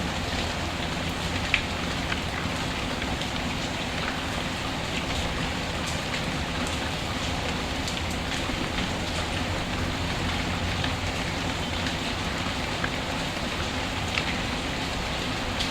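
Steady rain falling, with a fireplace crackling underneath: a few sharp pops now and then, the loudest about a second and a half in.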